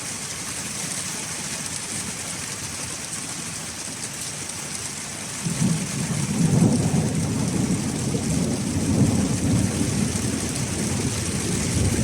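Steady rain hissing, with a low rumble of thunder that breaks in suddenly about halfway through and rolls on in swells for several seconds.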